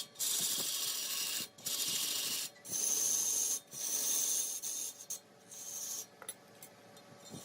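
A tool rasping against wood in repeated strokes, about one a second with short breaks between them, growing fainter after about five seconds.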